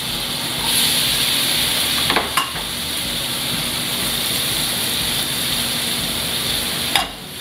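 Diced vegetables and sliced mushrooms sizzling in hot oil in an aluminium skillet as they are tipped in by hand. The sizzle grows louder about a second in as more goes into the pan, with a light knock about two seconds in.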